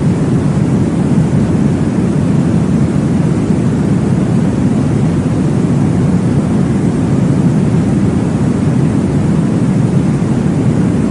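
Steady white-noise sleep track for babies: a deep, even hiss weighted toward the low end, with no breaks or rhythm.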